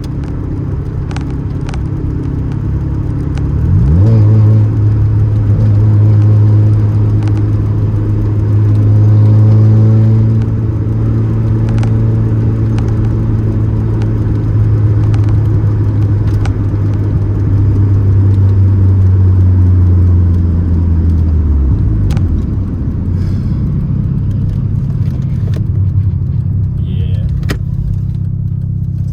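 Turbocharged 13B rotary engine of a 1988 Mazda RX-7 running while driving. The engine note rises about four seconds in as the car accelerates, holds steady for most of the stretch, then drops a little past twenty seconds.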